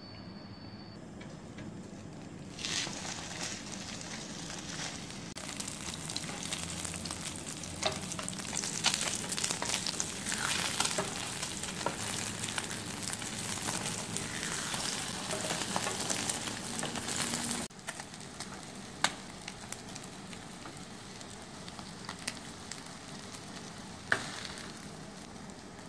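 Omelette slices frying in hot oil in a non-stick frying pan: a steady sizzle that starts about two and a half seconds in, with a spatula scraping and turning them. The sizzle drops suddenly about two-thirds of the way through and carries on quieter, with a couple of sharp clicks.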